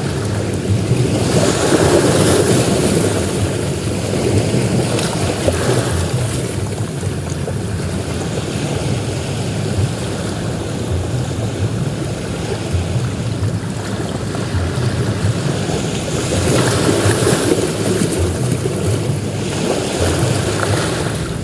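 Sea waves breaking and washing onto a beach: a continuous surf with two bigger surges, one about two seconds in and one near the end.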